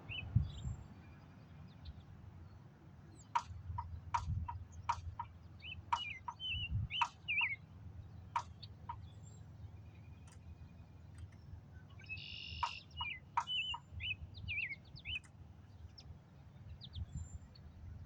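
Small birds chirping in short twittering notes, with a run of sharp clicks about every half second to a second and a low rumble underneath.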